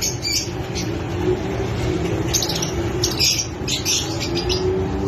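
Fischer's lovebirds chirping in quick, shrill bursts: a short cluster at the start and a longer run from about two and a half to four seconds in, over a steady low background hum.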